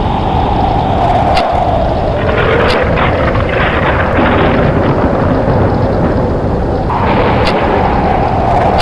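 Rolling thunder rumbling continuously, with sharp cracks about a second and a half in, near three seconds, and again about seven and a half seconds in.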